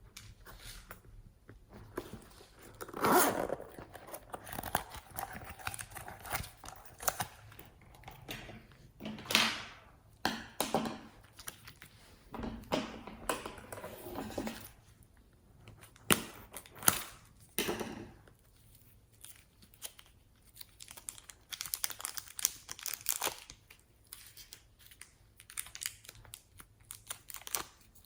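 Hands squishing, stretching and pulling slime, making irregular sticky crackling and tearing sounds in uneven bursts.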